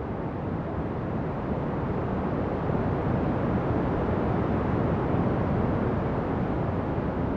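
Ocean waves: a steady, low wash of surf that swells a little a second or two in and eases off near the end.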